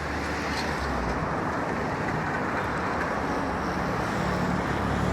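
Road traffic passing close by: a steady wash of engine and tyre noise, with a low engine hum growing slightly louder about four seconds in.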